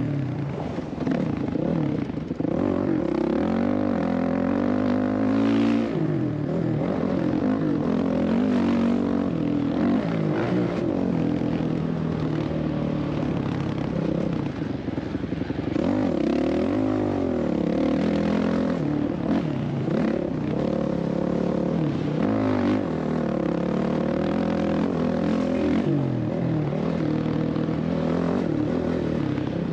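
Motocross dirt bike engine being ridden hard, revving up and easing off again and again, its pitch rising and falling every few seconds.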